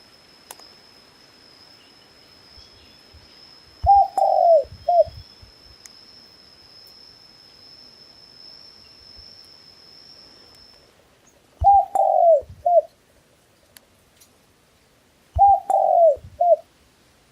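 A dove cooing three times, each phrase three low notes: a short coo, a longer falling coo, then a short coo. A faint steady high whine runs under the first two thirds.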